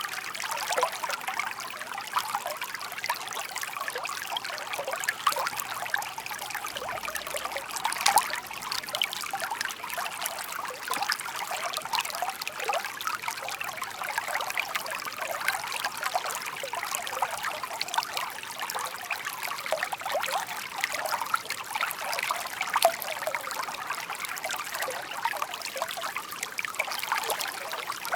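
Shallow brook babbling over stones: a steady trickling, splashing flow of water.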